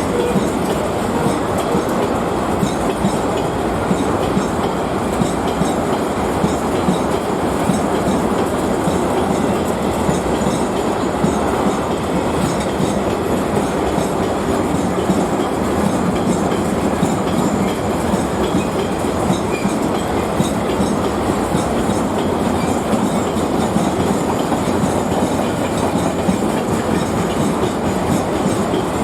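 A train running on the rails: a steady, unbroken rumble of wheel and track noise.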